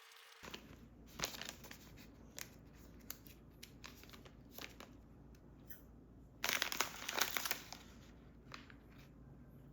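Small handling noises: scattered light clicks and taps, with a denser burst of noise lasting about a second just past the middle.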